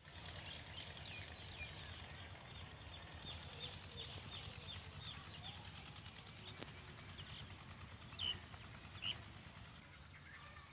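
Small birds chirping: a quick run of short high chirps, about three a second, through the first half, then two louder single chirps a little past the middle, over a steady low rumble.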